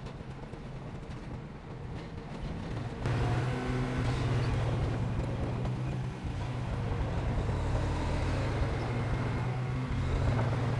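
Heavy diesel earthmoving machinery running steadily, its low engine hum jumping sharply louder about three seconds in and staying loud.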